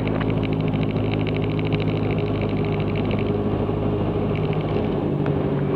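Cessna 162 Skycatcher's Continental O-200 four-cylinder engine running steadily at low power on the ground, a constant drone. A fast, fine buzzing rides on top during the first two seconds or so.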